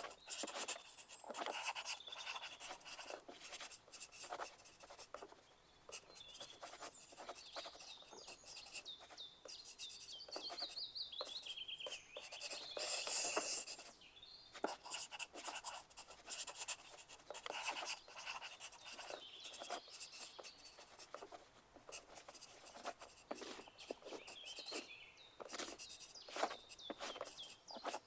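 Pencils writing on paper in an exam room: irregular scratching strokes and light taps, with louder stretches of quick scribbling about 13 seconds in and again near the end.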